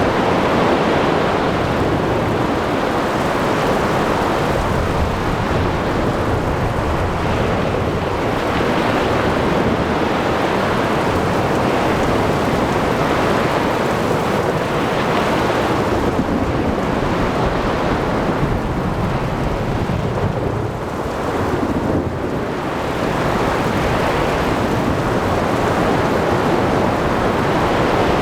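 Thunderstorm at sea: a continuous wash of rain, wind and surf with rumbling thunder, the noise swelling and easing every several seconds.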